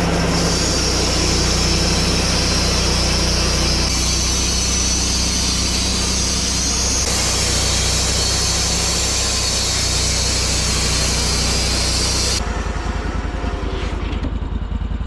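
Portable sawmill sawing through a log: a loud steady cutting hiss from the blade in the wood over the steady hum of the mill's engine. About 12 seconds in the blade clears the end of the log and the cutting noise stops, leaving the engine running.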